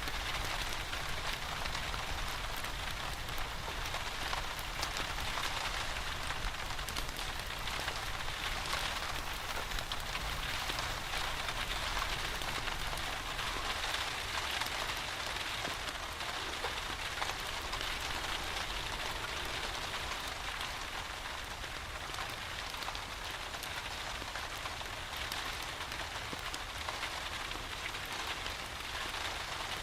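Steady rain falling and pattering on surfaces, mixed with a wood fire crackling in a fireplace, with fine scattered ticks over a low rumble.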